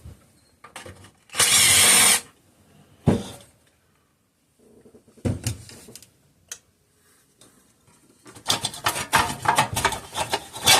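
A short burst from a power driver, then separate knocks and a fast clatter of small metal parts being handled near the end.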